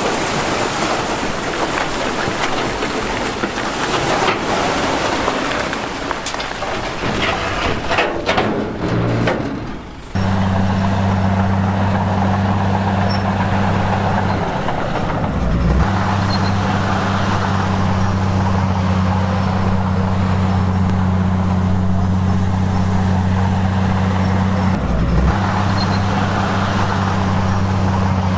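Diesel engine of heavy earthmoving equipment running. For the first ten seconds it is rough and noisy; after an abrupt change about ten seconds in, it settles into a steady low drone.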